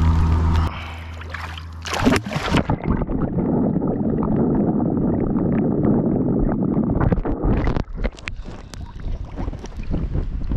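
Water sloshing and splashing as a tarpon is held in the shallows and released. A steady low hum stops under a second in, and the splashing is loudest in the middle and thins to scattered small splashes near the end.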